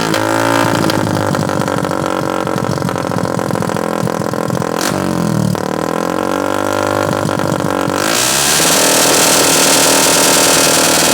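Motorcycle engine running loud through a DBS aftermarket exhaust taken off a Yamaha MX 135. The revs drop back at the start, run low and steady, blip up and fall again about five seconds in, then rise and are held higher near the end.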